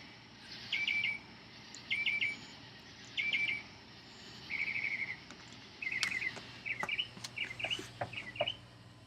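A bird singing at night, repeating the same short phrase of quick notes about once a second, then switching to different phrases about halfway through.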